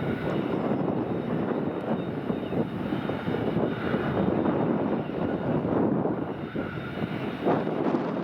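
Jet engines of a landing Boeing 767-200 freighter: a steady, loud rushing noise with a faint thin whine over it.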